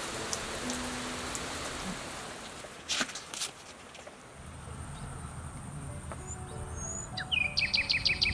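Steady rain hiss under soft background music, with a couple of sharp clicks about three seconds in, after which the rain fades away. Near the end a bird calls: a quick rising note, then a rapid run of about eight repeated notes, the loudest sound here.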